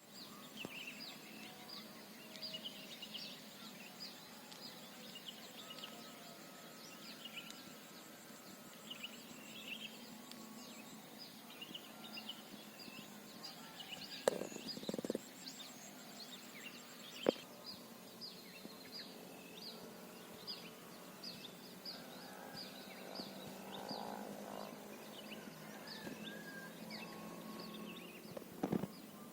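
Songbirds chirping and calling in quick, short notes, several birds at once, over a faint outdoor hiss. A few sharp clicks stand out about halfway through and again near the end.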